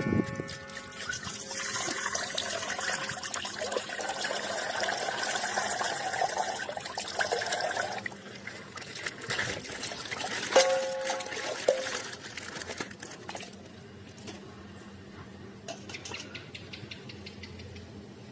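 Plastic toy packaging being handled and opened: a hissy rustle for the first several seconds, then scattered clicks with a brief tone about ten to twelve seconds in, fading to occasional faint clicks.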